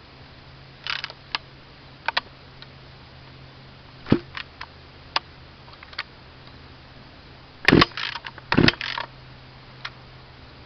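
Clicks and knocks from a chainsaw being handled, then two sharp pulls of its recoil starter rope near the end. The engine does not fire because the saw is out of gas.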